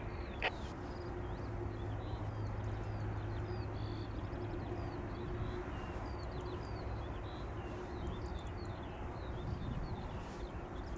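Small birds chirping and twittering again and again, over a steady low drone.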